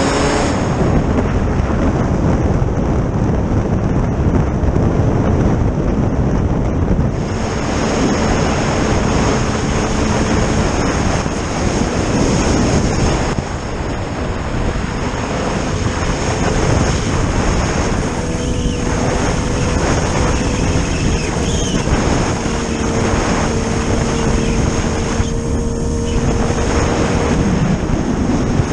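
Engine of a vehicle running at a steady speed while riding across ice, with heavy wind noise on the microphone.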